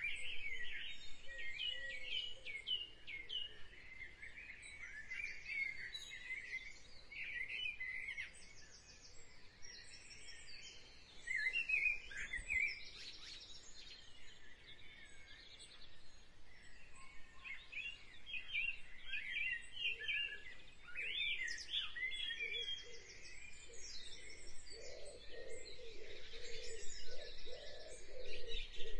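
Birds chirping and singing in a busy chorus of short, quick notes that rise and fall. About two-thirds of the way in, a lower-pitched run of notes joins them.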